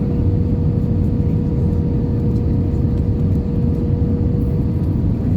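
Airliner cabin noise inside an Airbus A320-214: a steady, loud rumble of its CFM56 jet engines and airflow, with a steady hum running through it.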